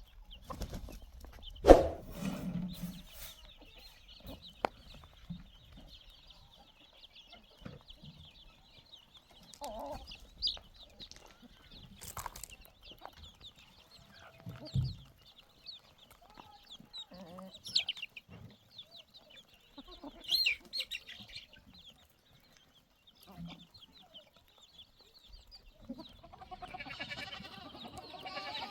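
Domestic chickens clucking, with scattered short knocks and chirps over a steady high-pitched background. Livestock begin bleating near the end.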